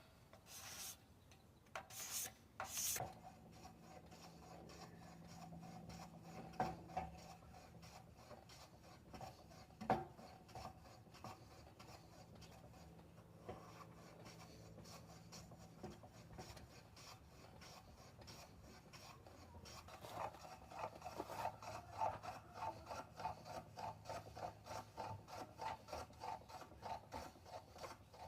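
Wood being smoothed by hand with an abrasive tool, rubbed back and forth in rasping strokes. A few sharper strokes come at the start, then a steadier rub, and near the end quicker regular strokes at about two a second.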